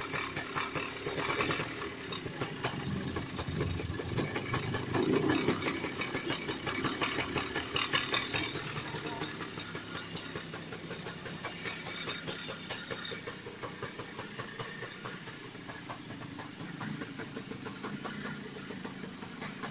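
The 125cc Villiers two-stroke single of a 1950s Sparta motorcycle running with a fast, rattly popping. It is louder and revved up and down in the first several seconds, then settles to a quieter steady run.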